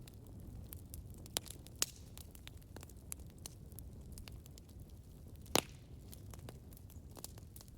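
Campfire crackling: scattered sharp pops and snaps over a low, steady rumble of burning. A few pops stand out, the loudest about five and a half seconds in.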